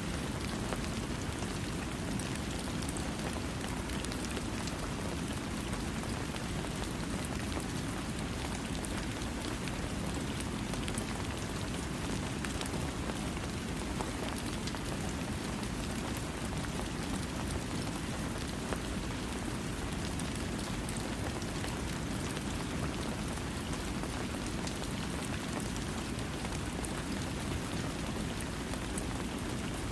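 Steady rain falling on a surface, an even hiss with a low rumbling base and scattered fine drop ticks, with no thunder.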